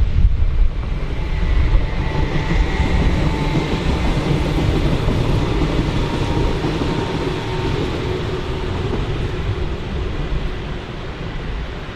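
A train moving through a station, a steady rail rumble with a faint high whine, slowly getting quieter.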